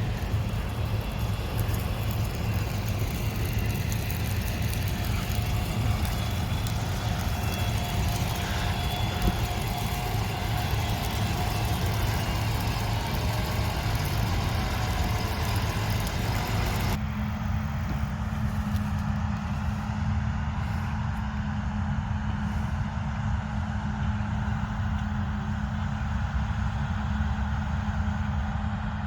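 Heavy harvest machinery running steadily, a deep continuous engine drone with a mechanical whir above it. About halfway through it switches abruptly to another machine's drone, with a strong steady low hum.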